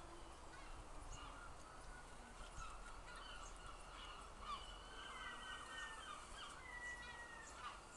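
Faint birdsong in a garden: several birds chirping and calling in short gliding notes, with two longer, slightly falling whistles about five and seven seconds in.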